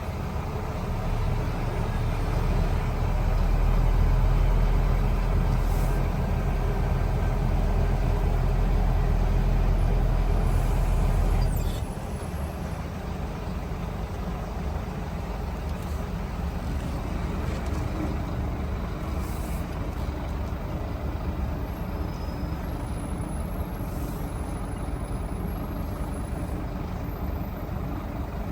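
Scania lorry's engine and road noise heard from inside the cab while driving, a steady low rumble that drops abruptly to a quieter level about twelve seconds in.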